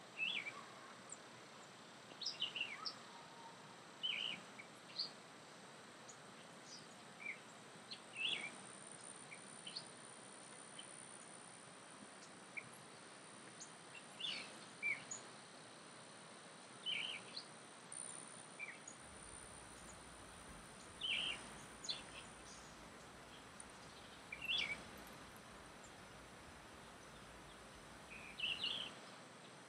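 Birds chirping: short, high calls every second or two over a faint, steady background hiss.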